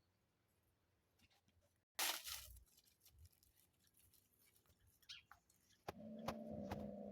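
Kittens scrambling about: a sudden loud burst of rustling and scratching about two seconds in, then scattered scratchy patters. A steady low hum with a few sharp ticks starts near the end.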